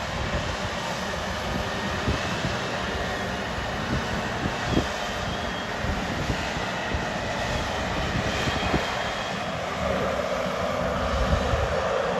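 Strong wind buffeting the microphone, an uneven low rumble over a steady rushing roar.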